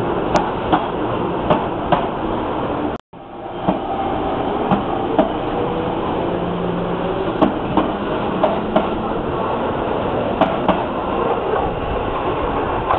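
Sagami Line 205-500 series electric commuter train pulling out of a station: a steady rolling rumble with sharp wheel clicks over rail joints, often in pairs. The sound cuts out abruptly for a moment about three seconds in.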